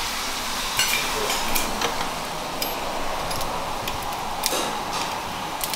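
Rice frying in a pot with a steady sizzle, with scattered light clicks and taps from a sauce bottle being handled.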